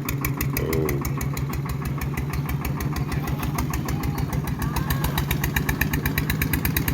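Klotok riverboat engine running steadily, a rapid, even chugging beat.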